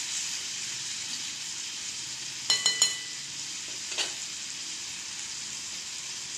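Tomato pieces frying in hot oil in a kadai, a steady sizzle. A metal spatula clinks against the pan three times quickly about two and a half seconds in, and knocks once more about a second later.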